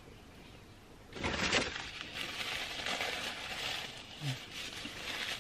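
Crinkling and rustling of a paper food wrapper being handled, starting about a second in and going on steadily, with a brief low vocal sound about four seconds in.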